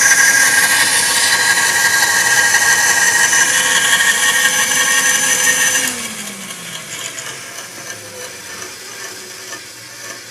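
Small electric motor of a miniature sawmill running its blade with a steady high whine, then switched off about six seconds in and spinning down, its pitch falling as it slows.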